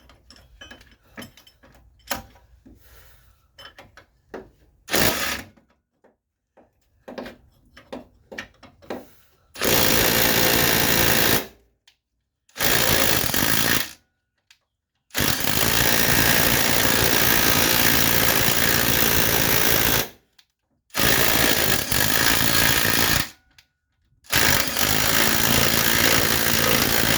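A few seconds of light ratchet clicks and tool knocks, then a power impact tool hammering in five bursts of one to five seconds each, driving out a front-suspension bolt.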